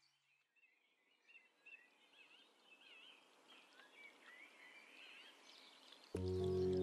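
Faint birdsong, short chirps repeating over a soft hiss, then background music comes in loudly near the end.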